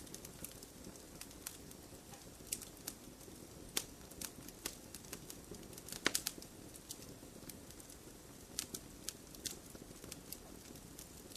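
Wood fire in a stone fire pit burning steadily, with irregular sharp pops and crackles over a low rustle of flame; a quick cluster of louder pops about six seconds in.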